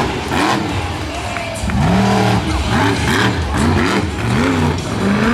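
Monster truck engine revving hard, its pitch rising and falling several times in quick succession.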